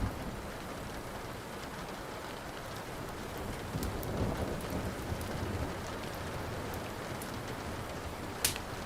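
Steady rain with a low roll of thunder swelling about four seconds in, over a wood fire crackling in small clicks, with one sharp loud pop from the fire near the end.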